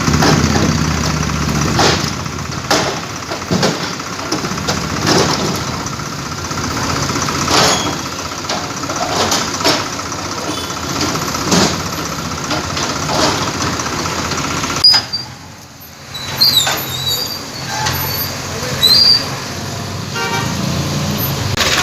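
Busy roadside noise: vehicles running and passing with horns, and scattered sharp knocks throughout. The sound drops out briefly about two-thirds of the way through, then resumes.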